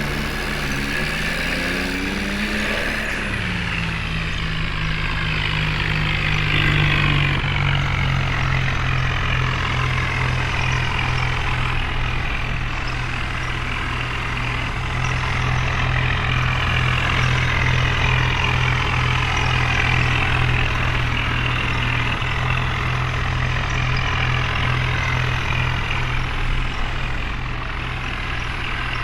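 Heavy diesel engine running hard under load during a tow out of mud. Its pitch rises over the first few seconds and then holds steady, with a constant hiss above it.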